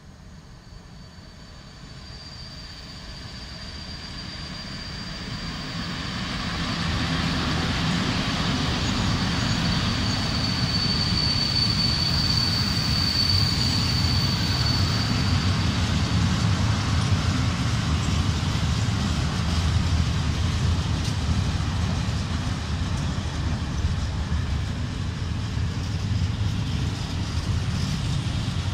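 PKP Cargo ET22 six-axle electric freight locomotive and its train of coal gondolas approaching and passing. The sound grows louder over the first several seconds, then settles into a steady heavy rumble of wagon wheels on the rails. A thin high-pitched squeal runs through the first half, strongest around the middle, and fades out a little past halfway.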